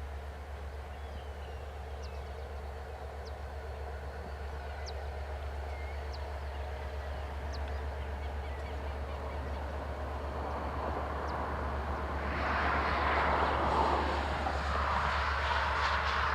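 Diesel freight locomotive rumbling steadily and growing louder, with a louder rushing noise setting in about twelve seconds in. Short bird chirps sound in the first half.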